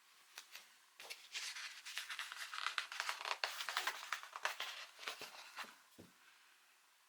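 Paper brochure pages being handled and turned: a couple of light clicks, then several seconds of rustling and scraping paper, ending in a soft thump about six seconds in.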